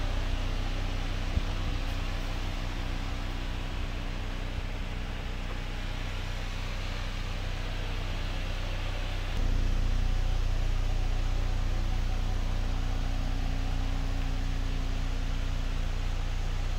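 Ford Explorer's engine idling, a steady low hum that steps a little louder about halfway through.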